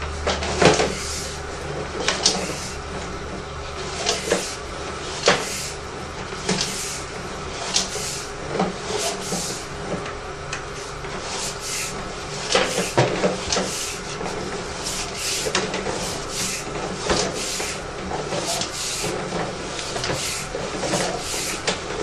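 Sewer inspection camera's push cable being fed down the drain line: irregular clicks and knocks, roughly one a second, over a steady hum.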